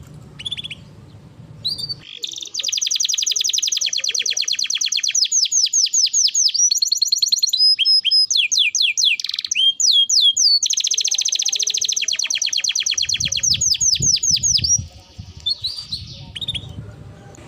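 Canary singing a long, loud song of rapid trills and rolled repeated notes, with a few sweeping whistled notes about halfway through; short chirps come before and after the main song.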